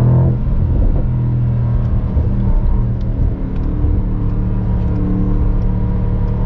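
Mercedes-AMG SL55's 4.0-litre twin-turbo V8 running while the car is driven: a low, even engine note that dips slightly in pitch in the first second, then holds steady.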